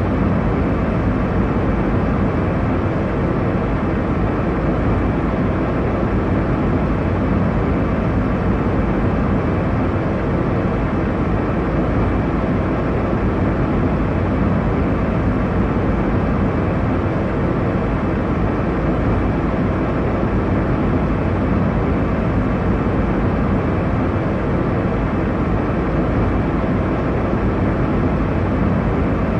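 Airliner cabin noise in flight: a steady, even low rumble of engine and airflow, with no changes or distinct events.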